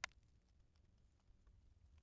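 A single sharp click right at the start, then near silence with a faint low hum.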